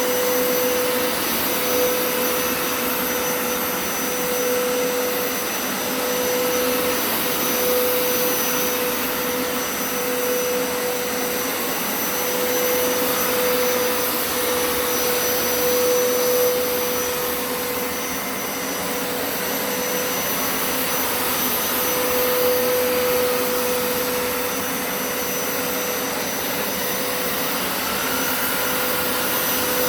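Hoover Turbo Scrub carpet cleaner running on carpet: a steady motor whine over the hiss of suction, swelling and easing a little every couple of seconds.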